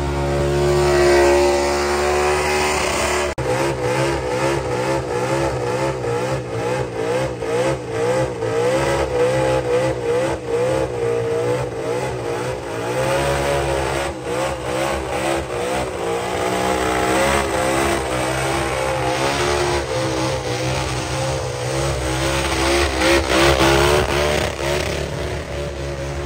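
A burnout car's engine revved hard and held at high revs, its pitch wavering up and down continuously as the throttle is worked.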